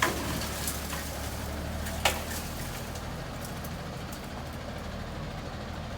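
Garbage truck engine running with a steady low hum, broken by a sharp bang right at the start and a louder one about two seconds in.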